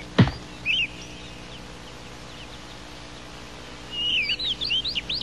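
Birds chirping in short, quick calls, a couple about a second in and a busier run near the end. A single thump of a soccer ball sounds just at the start.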